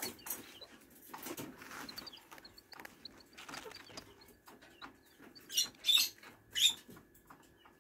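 Serama chick peeping faintly in short high runs. Three louder scratchy rustles come about five and a half to seven seconds in.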